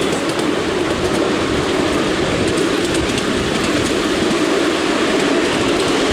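Miniature railway train running along the track, heard from on board: a steady rumble of wheels on the rails with faint ticking.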